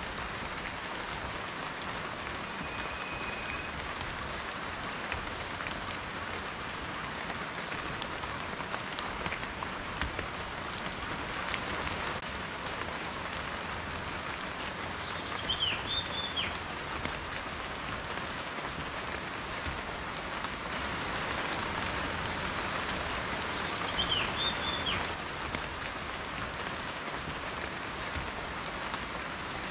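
Steady rain falling, with individual raindrops ticking through an even hiss. A bird gives a short chirping call twice, about halfway through and again later.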